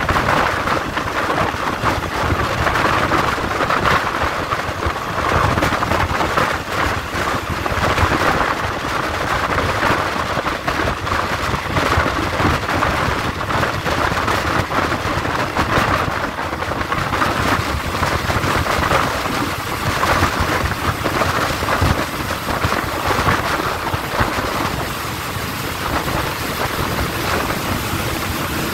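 Steady rushing noise of a moving passenger train heard from an open coach window, with air rush and track noise mixed together.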